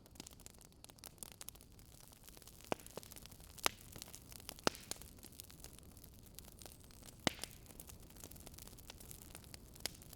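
Wood fire crackling: irregular small clicks and a few louder pops over a faint steady hiss.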